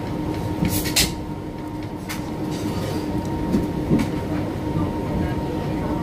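Moving passenger train heard from inside a sleeper carriage: a steady running rumble with a steady hum under it. A few sharp clicks and knocks come from the wheels and car body, the loudest about a second in.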